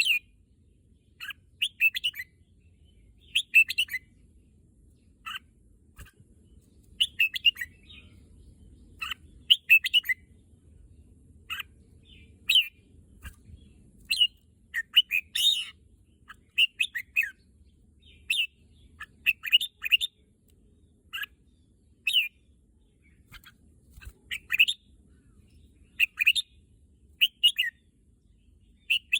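Red-whiskered bulbul singing short, quick warbled phrases, one every second or two, over and over.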